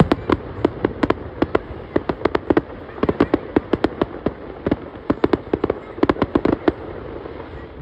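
Fireworks going off: a rapid, irregular run of sharp bangs and cracks, several a second, thinning out in the middle, bunching up again and then stopping about a second before the end.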